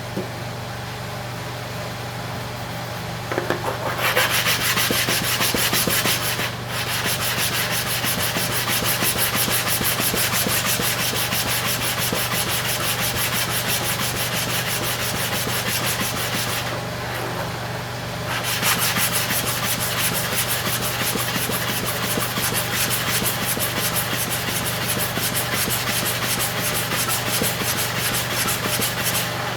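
Clipper comb blade in a blade holder being rubbed rapidly back and forth on a sharpening stone dressed with sharpening oil and powder: a continuous gritty scraping that starts a few seconds in, stops briefly a little past halfway, then resumes. A steady low hum runs underneath.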